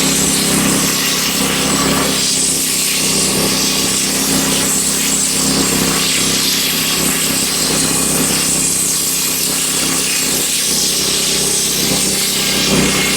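Wood-Mizer LX25 portable band sawmill running steadily, its engine under load as the band blade cuts lengthwise through a hemlock beam.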